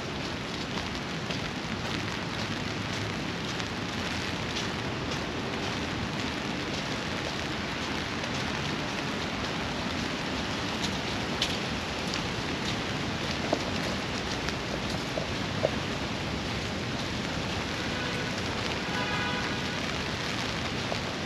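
Steady rain falling on the park's paths and trees, with a few sharp taps of drops. A short pitched call sounds near the end.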